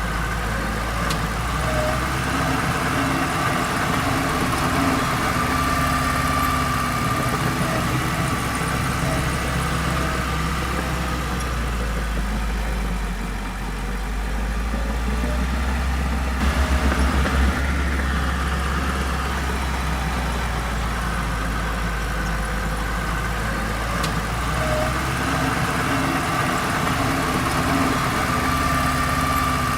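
Diesel engine of heavy construction machinery running steadily, briefly louder with a fast pulsing just past halfway.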